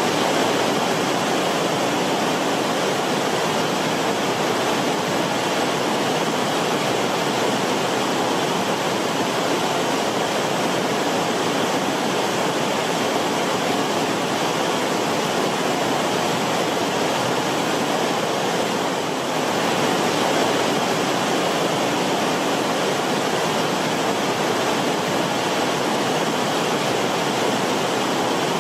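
Creek water rippling and bubbling over rocks in the creek bed: a steady, dense rushing burble.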